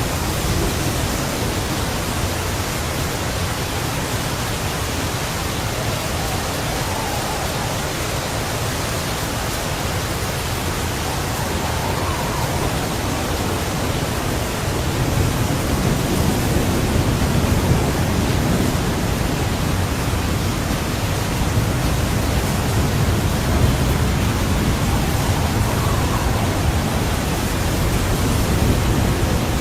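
Loud, steady rushing noise with no distinct events, starting and stopping abruptly.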